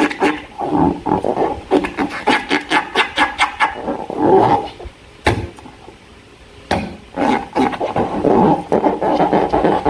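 Slime being squeezed and worked by hand: rapid wet squelching and crackling pops of trapped air, with one sharp snap about five seconds in and a short lull after it.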